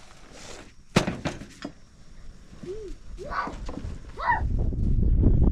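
A single sharp thunk, like a knock or impact on wood, about a second in, with a few lighter knocks after it; then wind buffets the microphone near the end.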